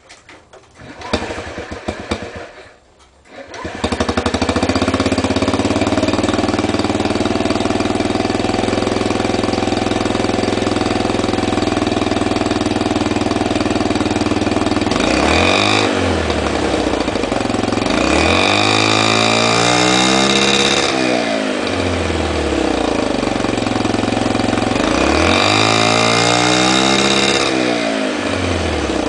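Honda Ruckus scooter's 49cc four-stroke single-cylinder engine, breathing through a modified stock exhaust, is cranked for a few seconds and catches, then settles to a steady idle. It is revved three times, once briefly and then twice for a couple of seconds each, the pitch rising and falling back to idle.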